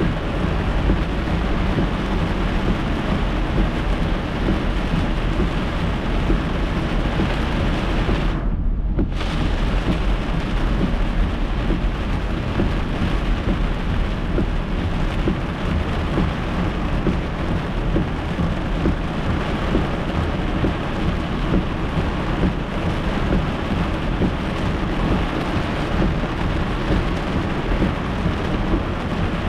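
Heavy rain drumming on a moving car's windshield and roof, heard from inside the cabin over a steady low rumble of road noise. About nine seconds in, the rain sound briefly drops out for half a second, leaving only the low rumble.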